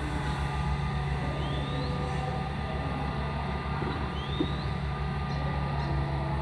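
Hitachi excavator's diesel engine running steadily as a low drone, with a short high rising chirp above it twice.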